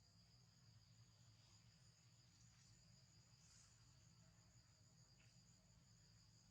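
Faint, steady high-pitched chirring of insects such as crickets or cicadas, unbroken, with a faint low rumble underneath.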